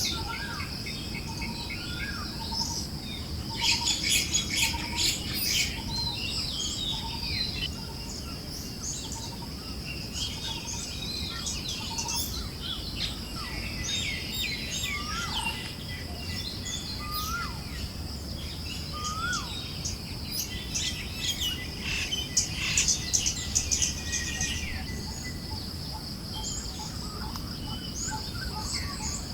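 Forest birds chirping and whistling, with two louder spells of rapid trilling, over a steady high insect-like hum and a soft low rush of wind.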